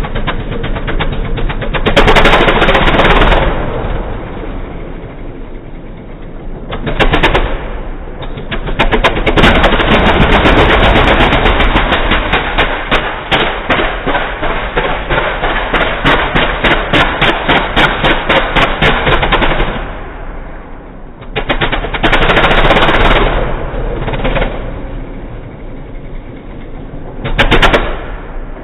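Loud diesel engine running with a rapid rattling train of exhaust pulses. It swells into loud bursts several times, the longest lasting about ten seconds midway, and eases back in between.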